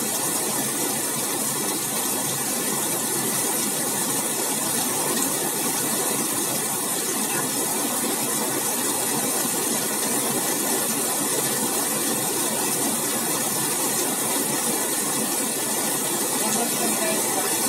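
Heavy monsoon rain pouring steadily onto a paved road and roadside trees: a dense, even hiss.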